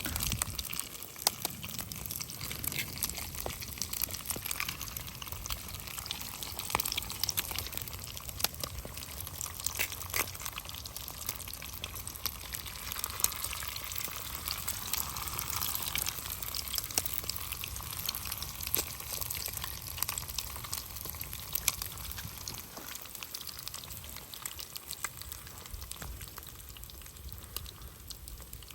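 Food frying in a pan over a wood fire: a steady sizzle with many sharp, irregular crackles.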